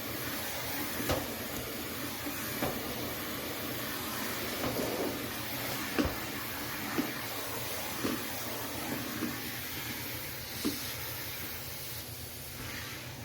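Central vacuum hose and nozzle sucking air with a steady hiss, with a few knocks as the nozzle bumps against the recliner.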